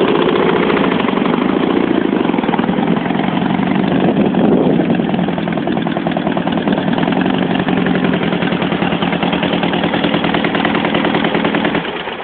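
Dnepr motorcycle's flat-twin engine running steadily at idle, with a slight swell in revs about four seconds in, before dying away near the end.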